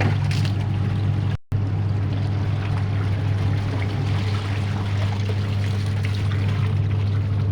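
Washing machine running its wash cycle: a steady motor hum with water and clothes churning in the tub, broken by a brief silent gap about one and a half seconds in.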